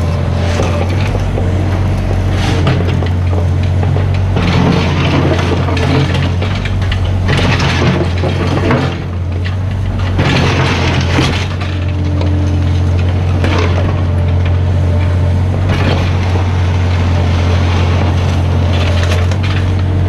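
Mini excavator's diesel engine running steadily while the bucket scrapes and crunches through ground material in repeated bouts.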